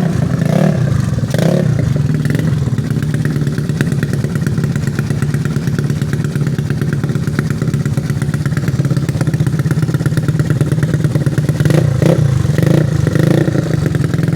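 Yamaha Mio scooter engine bored out to 155cc, a single-cylinder four-stroke, running loud and steady on its race exhaust. It gives short throttle blips near the start and again near the end.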